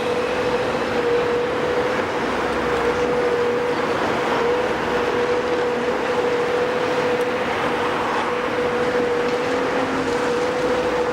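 Heavy construction machinery running steadily, a continuous mechanical rumble and clatter with a constant high whine held throughout.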